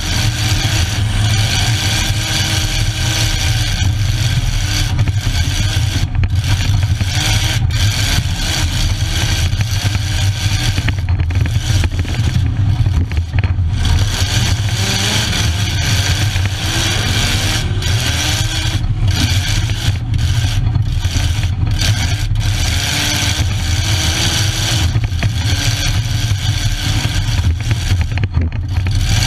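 Derby car's engine running loud, its pitch rising and falling as it revs up and down, heard from inside the stripped-out cockpit, with scraping noise over it.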